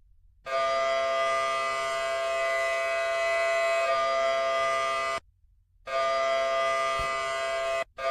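A steady pitched tone held at one pitch, like a horn or alarm signal: one long blast of about five seconds, then a shorter one of about two seconds after a brief gap, each cutting off sharply.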